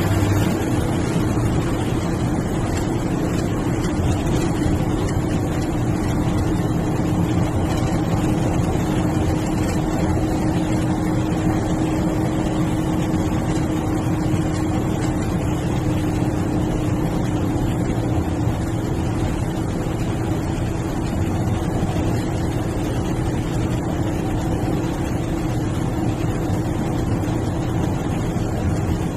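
MSRTC sleeper/seater bus running steadily on the road: engine drone with a steady tone under an even wash of road and wind noise.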